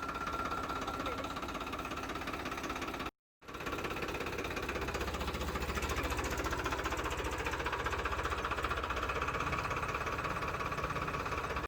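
Tractor diesel engine running steadily with an even, rapid knocking beat. It cuts out for a moment about three seconds in.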